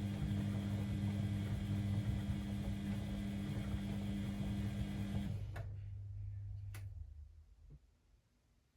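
Beko WML 71433 NP washing machine running with a steady low hum that cuts out about five seconds in. A fainter, lower hum fades away over the next two seconds, with a couple of short clicks, and then there is near silence.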